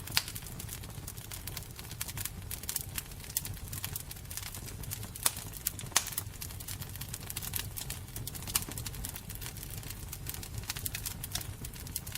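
Wood fire burning, with a low steady rumble and irregular crackles and sharp pops, a few louder pops standing out.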